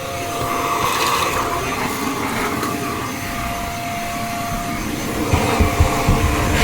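Shark stick vacuum cleaner running on its lowest power setting: a steady motor whine with one constant tone over the rush of air. Near the end comes a run of low bumps and knocks from the nozzle against the stairs.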